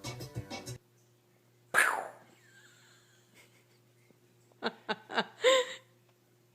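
A single sharp sneeze, then a few seconds later several quick short snorts and a brief squeaky pitched sound.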